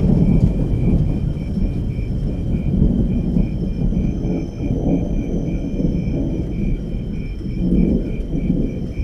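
Thunder rumbling and rolling continuously under rain. Insects keep up a high, even chirping pulse about three times a second.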